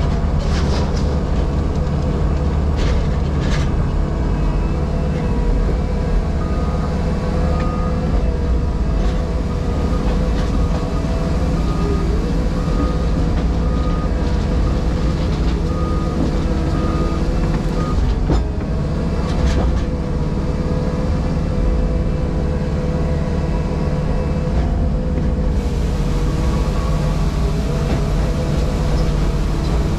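Diesel engine of a JCB Pothole Pro wheeled excavator running steadily, heard from inside the cab, with a few short knocks. A faint beep repeats at about one per second for around ten seconds in the middle.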